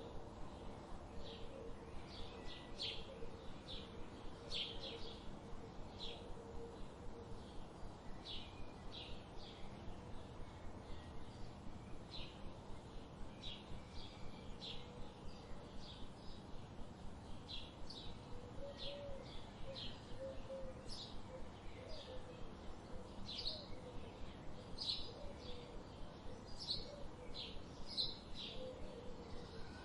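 Wild birds chirping: a steady run of short, high chirps, one or two a second, with fainter lower calls behind them.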